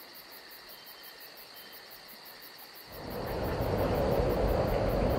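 Faint high chirping in an even pulse, about four a second, over a faint high hum; about three seconds in, a loud steady rushing noise rises and covers it.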